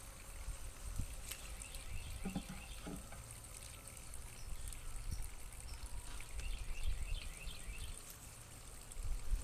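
Outdoor ambience: wind rumbling on the microphone, with faint bird chirps and two brief low buzzes about two and three seconds in.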